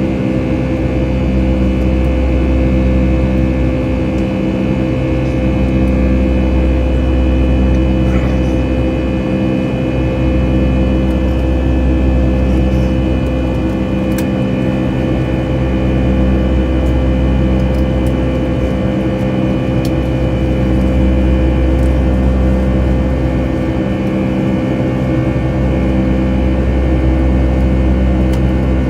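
Boeing 757-200's twin turbofan engines heard from inside the passenger cabin: a loud, steady drone with several steady tones over a deep rumble that swells and fades every five seconds or so.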